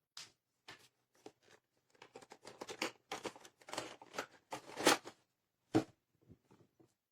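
Irregular rustling, scraping and light knocking of things being handled close to the microphone, busiest in the middle with a sharper knock near the end.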